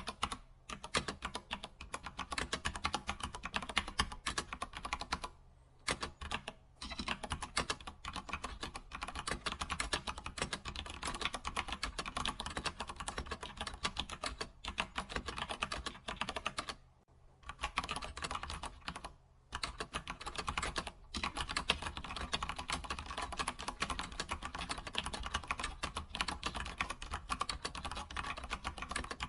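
Typing on a computer keyboard: a fast, continuous run of key clicks, broken by short pauses about five and a half seconds in and again around 17 and 19 seconds in.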